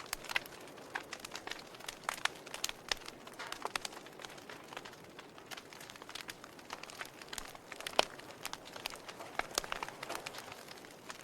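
Wood fire burning in a fireplace: logs crackling with irregular sharp pops over a soft steady hiss, the loudest pop about eight seconds in.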